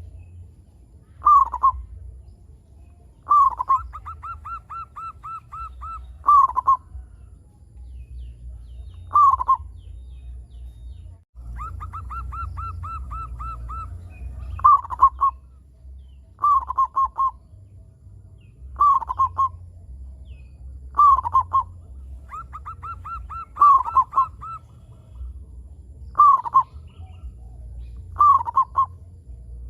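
Local zebra dove (perkutut) singing actively: short falling coos repeated every second or two, broken by runs of quick clipped notes, about eight a second for a couple of seconds. A steady low hum runs underneath.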